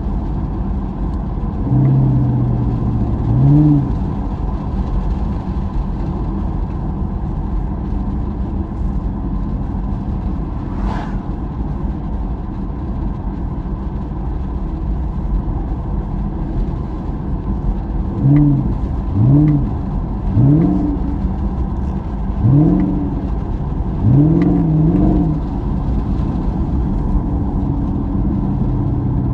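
Chevrolet Camaro heard from inside the cabin while driving: a steady engine and road-noise drone, with short engine revs rising in pitch, a couple about two to four seconds in and a series of them between about 18 and 25 seconds. A single brief click near the middle.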